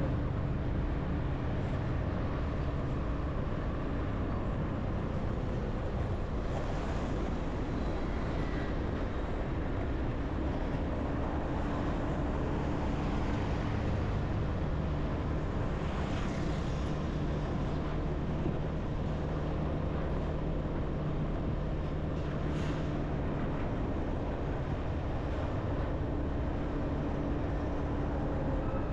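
Motorbike engine running at a steady speed during a ride, with a constant rush of road noise.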